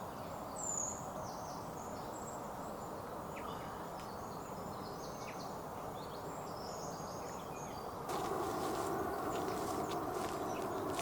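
Outdoor ambience: a steady rushing noise with small birds chirping high overhead, quick falling chirps and scattered short calls. About eight seconds in, the rushing noise abruptly gets louder and rougher.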